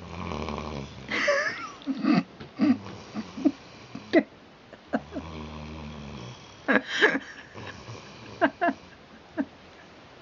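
Eight-month-old Rhodesian Ridgeback pup snoring in its sleep: two long, low, buzzing snores, one at the start and one about five seconds in, with a run of short, sharp, louder sounds between and after them.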